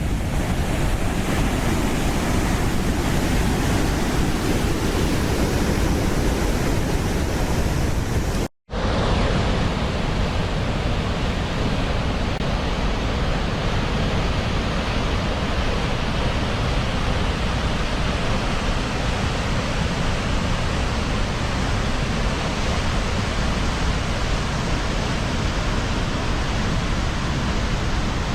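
Waterfall: a loud, steady rush of falling water. It cuts out for an instant about eight seconds in and resumes a little duller, with less hiss.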